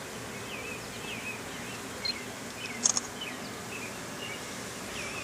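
Honeybees buzzing faintly around an open hive while small birds chirp over and over, with a sharp click just before three seconds in.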